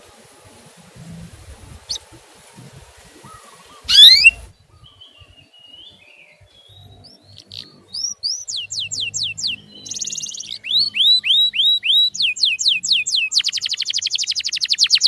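Male canary singing: a loud rising whistle about four seconds in, then sets of repeated curved whistled notes, each set a different note, ending in a fast rapid trill.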